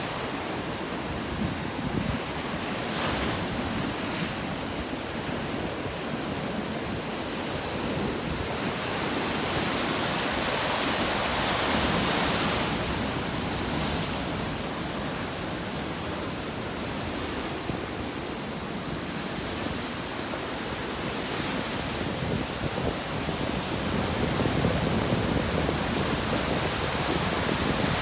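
Ocean waves breaking and washing ashore in a continuous rush of surf, swelling louder in the middle and again near the end.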